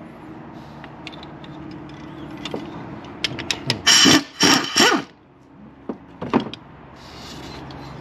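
Three short bursts of a power tool spinning on a bolt, about halfway through, among scattered clicks and clinks of tools and metal parts.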